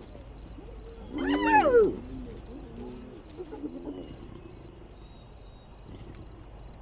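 Spotted hyena giving one loud call that rises and falls in pitch about a second in, followed by a few softer calls, as lions move in on its kill. A steady high insect trill runs underneath.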